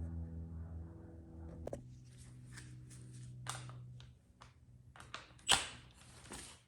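Hand tools and engine parts clicking and knocking during engine disassembly: a scatter of short, sharp clicks, the loudest about three and a half and five and a half seconds in, over a low steady hum that fades out in the first few seconds.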